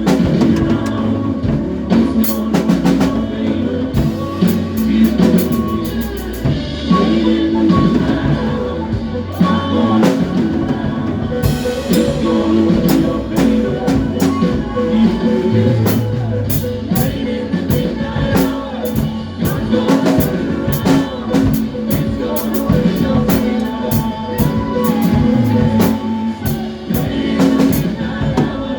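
Live gospel band playing an instrumental passage, with a drum kit keeping a steady beat under bass and other sustained instrument notes.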